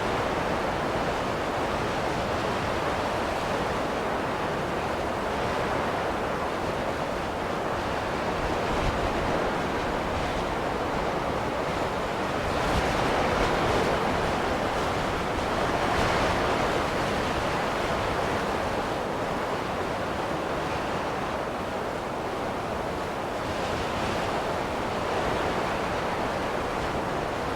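Snowstorm wind: a steady rushing noise that swells and eases slowly every few seconds.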